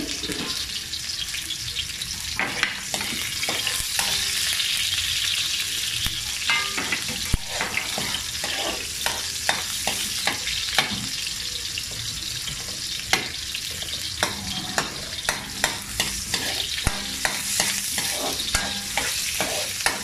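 Sliced onions frying in oil in a metal wok, a steady sizzle, while a metal spatula stirs them with scraping and sharp taps against the pan, the taps coming more often in the second half.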